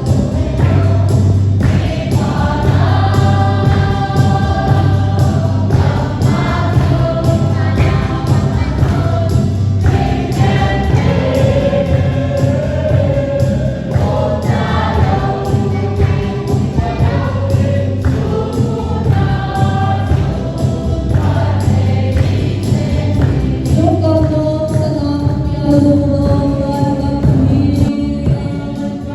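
Music: a choir singing a gospel-style song over instrumental backing with a steady beat.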